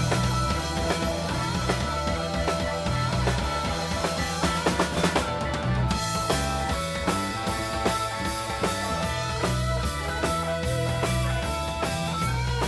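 Live rock band playing, with the drum kit prominent over bass and guitar. A run of rapid drum hits comes about five seconds in.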